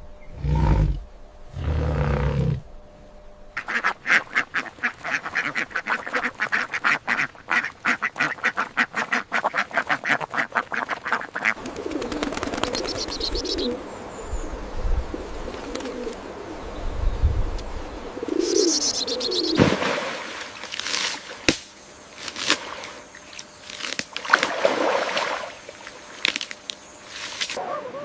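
Ducks quacking: a fast run of short calls for several seconds, then scattered separate calls.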